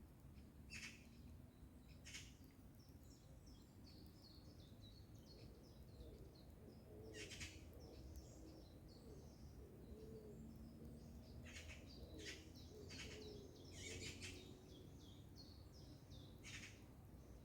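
Faint songbirds twittering in quick, high chirps, with harsh, rasping chatter calls of Eurasian magpies breaking in every second or few.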